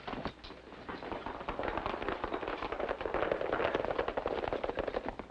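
A troop of horses galloping off together, a dense, rapid clatter of hoofbeats that swells through the middle and falls away near the end.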